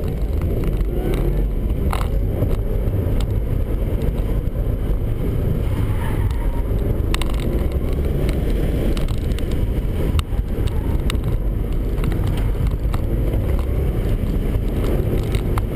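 2008 Subaru WRX's turbocharged flat-four engine driven hard through an autocross course, heard from inside the cabin as a steady loud rumble mixed with road and wind noise. A few sharp clicks or rattles are heard along the way.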